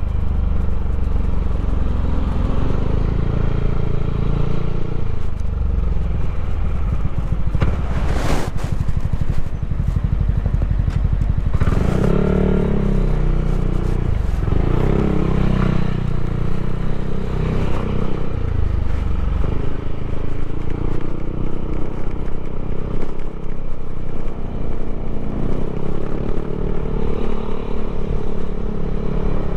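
Yamaha Aerox scooter's single-cylinder four-stroke engine, bored and stroked to 200 cc, running continuously with its note rising and falling. A brief sharp noise about eight seconds in.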